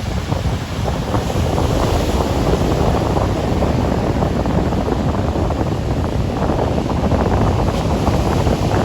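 Onshore sea wind buffeting the microphone, a steady rumbling rush, over the wash of breaking surf.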